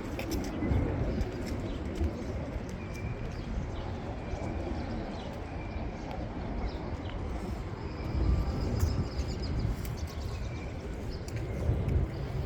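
Outdoor park ambience: a steady low rumble of city traffic, with a small bird chirping short notes again and again and a few faint sharp clicks.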